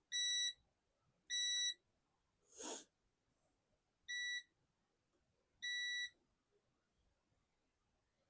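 Multimeter continuity beeper sounding four times, short steady beeps at irregular intervals as the probes touch points on a laptop motherboard; each beep marks continuity, a low-resistance path between the probes. A brief hiss about two and a half seconds in.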